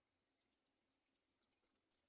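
Near silence, with a few faint short ticks near the end.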